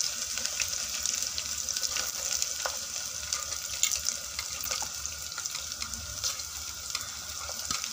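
Diced potatoes, peanuts and chilli sizzling in ghee in an open aluminium pressure cooker as chopped carrots go in. A steel ladle stirs through them, clinking and scraping against the pot.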